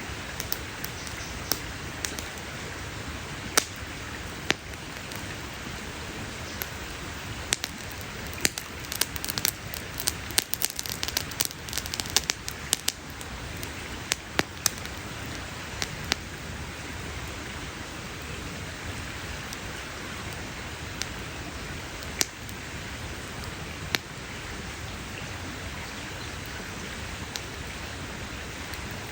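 Wood campfire crackling: sharp pops and snaps over a steady hiss, with a busy run of crackles about eight to thirteen seconds in.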